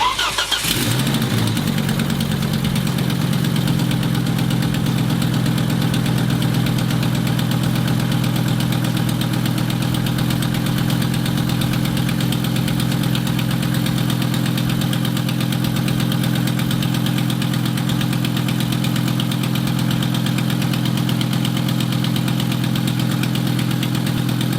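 Volvo 850's 2.5-litre 20-valve inline five-cylinder engine starting and settling within about a second into a steady, noisy idle. The clattery running is what the owners put mostly down to a leaking exhaust manifold at cylinder 2, with lifters still short of oil.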